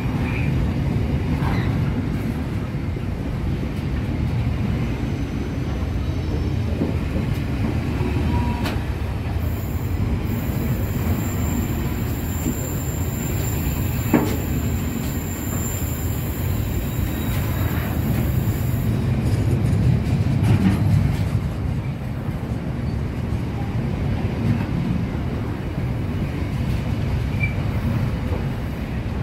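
A container freight train's wagons roll past close by at steady speed, a continuous low rumble of wheels on the rails. A thin high-pitched squeal runs for several seconds in the middle, and there is a single sharp click about halfway through.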